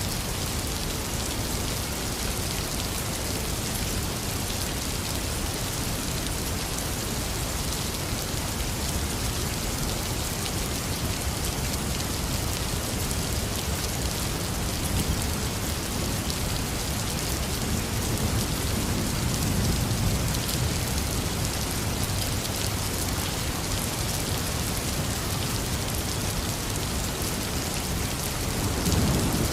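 Heavy rain falling steadily in a constant hiss. A low rumble of thunder swells about two-thirds of the way through, and another starts building near the end.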